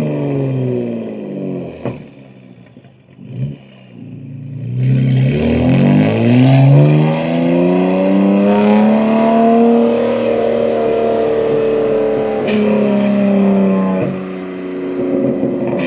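BMW M2 G87's S58 twin-turbo straight-six, with catless downpipes and an equal-length mid pipe, running on the exhaust. The revs fall away into a quieter lull with a short blip, then the car accelerates with a rising engine note that levels off. It drops briefly near the end and climbs again, as on a gear change.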